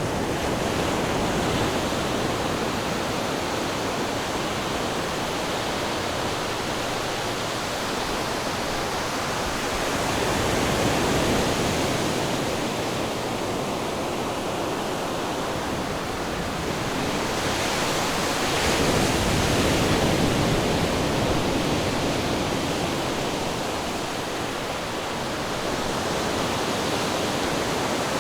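Ocean surf: a continuous wash of breaking waves that swells louder about ten seconds in and again near twenty seconds.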